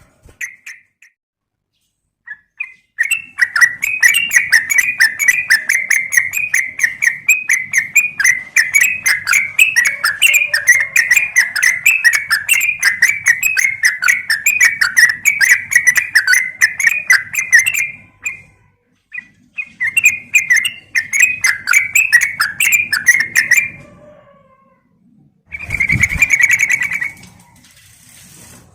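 Yellow-vented bulbul (trucukan) chattering in a long rapid run of short chirps, broken by a pause about two-thirds through and followed by one short louder burst near the end.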